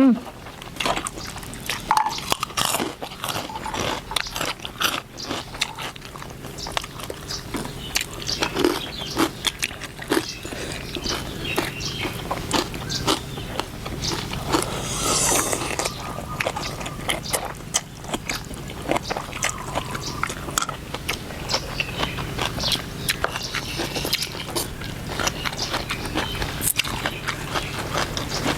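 Close-up eating sounds: chewing and biting on noodle soup with pork, with many small clicks and crunches throughout.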